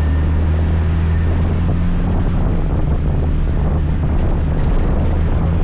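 Scooter engine running steadily on the move, a low even hum, with wind rushing over the microphone.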